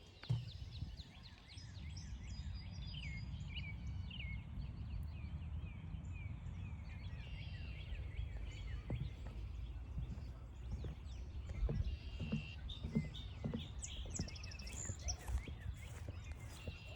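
Songbirds chirping and singing in short phrases over a steady low rumble, with a few soft thumps in the second half.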